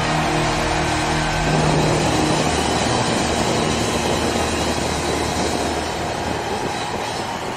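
Onboard sound of a Triumph Sprint ST 1050's three-cylinder engine running at road speed, mixed with a steady rush of wind noise.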